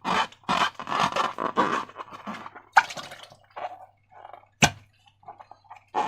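Slime being squished and handled, a run of short wet squelches, with one sharp snap about four and a half seconds in.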